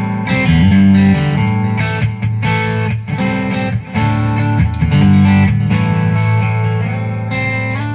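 Electric guitar on its Seymour Duncan Phat Cat bridge pickup, a P90-style single coil, played through a Bad Cat Cub valve amp's overdrive channel at light gain: a run of strummed chords and picked notes, each ringing out.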